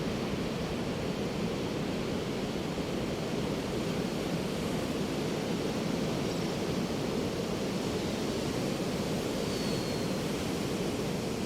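Ocean surf breaking on a beach: a steady, continuous roar of waves with no single crash standing out.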